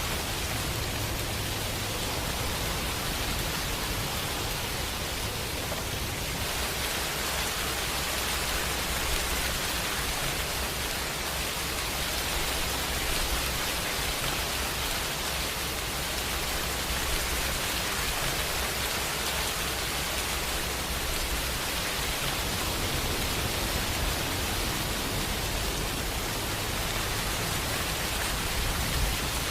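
Steady rain falling as a dense, even hiss, with no single drops or thunderclaps standing out.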